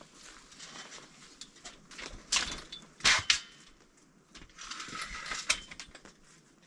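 A pop-up canopy being set up: a metal frame sliding and clicking, fabric rustling, and a sharp clatter about three seconds in.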